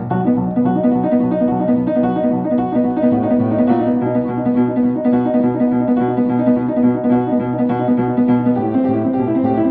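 Instrumental song passage on piano or electric keyboard, playing steady repeated chords in an even rhythm.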